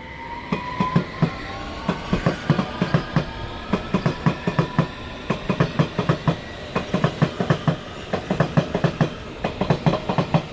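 c2c Class 357 electric multiple unit pulling out and gathering speed. Its wheels clatter over the points and rail joints in a quick run of clicks, over a faint whine from the traction motors that rises in pitch during the first few seconds.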